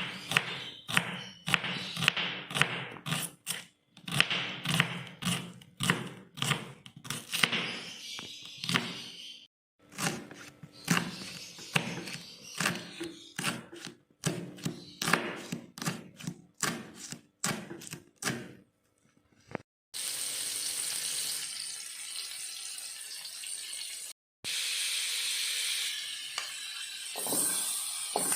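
Rapid, irregular knocks of a knife chopping on a cutting board. About twenty seconds in they give way to a steady hiss of food frying in a pan.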